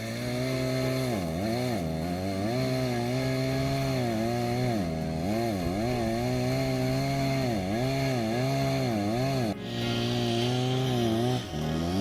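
Chainsaw running under load while bucking red pine logs into rounds. Its engine pitch repeatedly dips and recovers as the chain bites into the wood.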